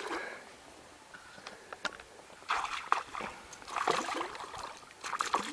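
A hooked fish splashing at the surface while being brought in to the boat, with water sloshing in three short bursts, the last near the end.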